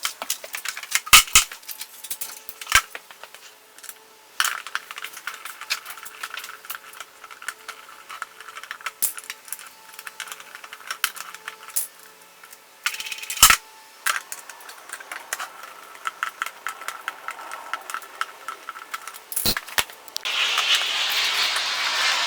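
Skateboard hardware being handled while trucks are swapped: metal clinks, rattles and clicks of bolts, nuts and tools, with a few sharp knocks. Near the end a steady hiss starts suddenly.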